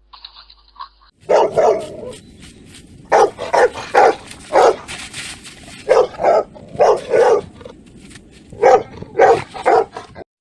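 A dog barking loudly and repeatedly, in short runs of two or three barks with pauses between.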